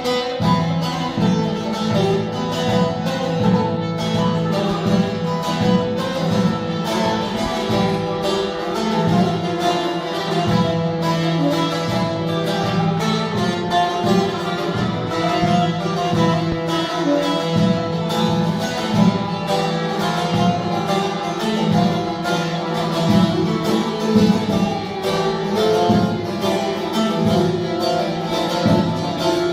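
Instrumental Turkish folk music: a bağlama (saz) picked in fast runs over a steady low drone, with a bowed string line alongside.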